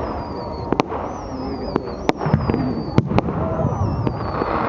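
Fireworks going off: sharp bangs at irregular intervals, about five or six in under five seconds, with high thin whistles gliding down in pitch between them. A crowd murmurs underneath.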